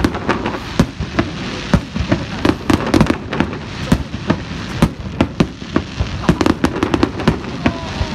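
Aerial fireworks shells bursting overhead in a rapid, irregular barrage of bangs, several a second, over a continuous hiss.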